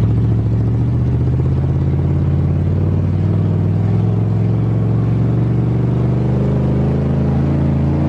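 1988 Chevrolet pickup's engine running steadily under load while driving, its pitch climbing slowly.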